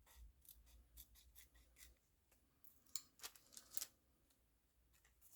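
Faint scissors snipping through paper or card, a scatter of short, quiet snips.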